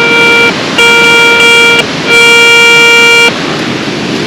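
Garrett Ace 250 metal detector giving three long steady beeps of the same pitch, about a second each, its signal for a target that reads as copper, over a steady rush of water.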